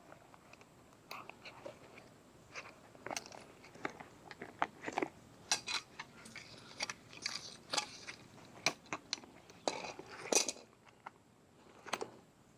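Irregular clicks, taps and scrapes of tools and metal parts being handled under a truck during an oil change, close to the microphone.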